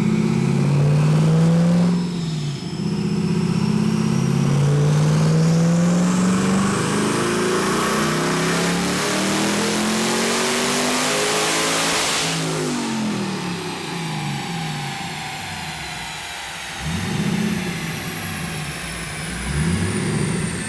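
Twin-turbocharged LS3 V8 of a fifth-generation Camaro making a full-throttle pull on a chassis dyno: the revs climb steadily for about ten seconds with a rising turbo whistle. About twelve seconds in, the throttle closes, the engine falls back, and the turbo whine winds down slowly, with a couple of smaller rises in engine speed near the end.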